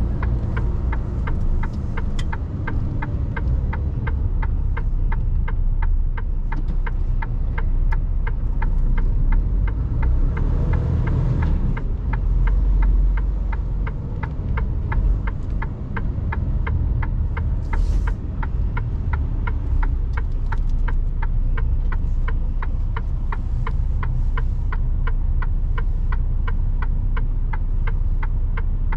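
Truck indicator relay ticking steadily and evenly inside the cab of a Mercedes Actros, over the low rumble of the diesel engine.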